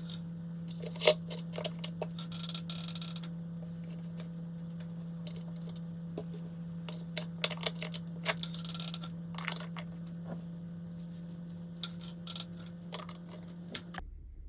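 Light clicks, taps and clinks of small hard objects being handled, with a few short scraping rushes and one sharper click about a second in, over a steady low hum. The hum and the clicking cut off suddenly near the end.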